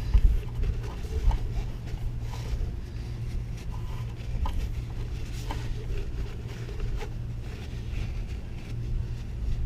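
Scattered light clinks and taps of metal parts and tools being handled, over a steady low rumble of wind on the microphone.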